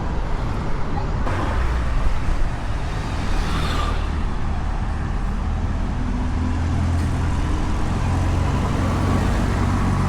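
Road traffic: a continuous vehicle rumble, with an engine hum coming in close from about six seconds in.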